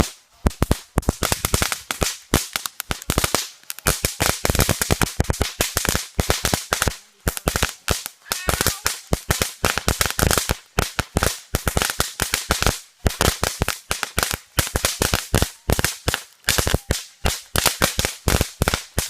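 A long run of firecrackers going off in rapid, irregular succession, many sharp bangs a second with a few brief pauses.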